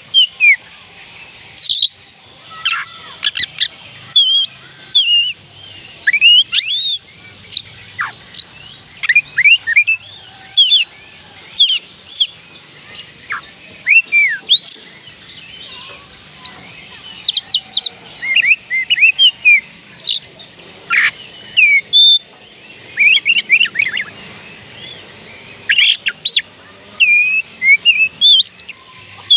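Oriental magpie robin singing: a long, varied run of short whistled notes and quick up-and-down sweeps, in phrases broken by brief pauses.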